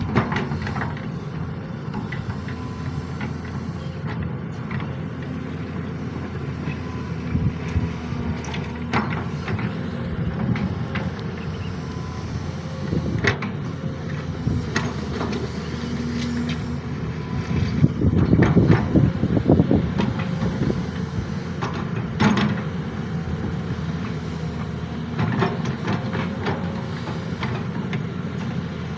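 Sany SY215C hydraulic excavator running steadily while it works, with scattered knocks and clanks and a louder, rougher spell about two-thirds of the way through.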